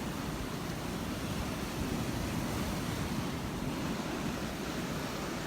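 Gulf of Mexico surf washing onto a sandy beach, a steady wash of waves.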